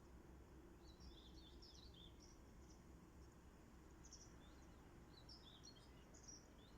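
Faint birdsong: small birds twittering in quick high chirps, in three short bouts, over a low steady hum of background noise.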